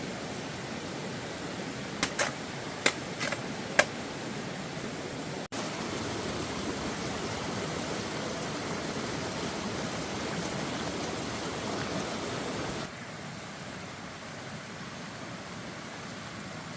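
Steady rushing water noise, with a few sharp clicks about two to four seconds in. The sound jumps louder once and drops back once, at abrupt cuts.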